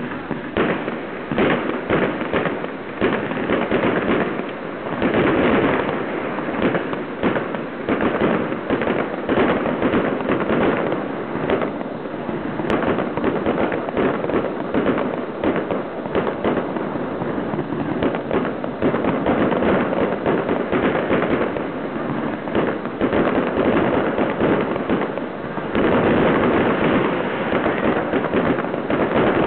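Fireworks display: a dense, unbroken run of bangs and crackling from aerial shells bursting overhead, heavier near the end.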